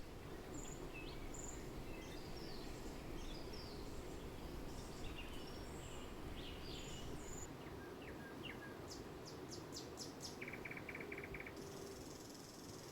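Several songbirds chirping and calling over a steady low rushing noise. Near the end there is a short fast trill, then a thin buzzing call.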